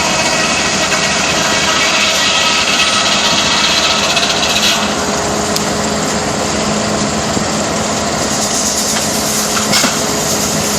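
Sawmill blade cutting through a log, a loud rasping whine over a steady hum. About halfway through the high cutting sound drops away, as the blade comes out of the cut.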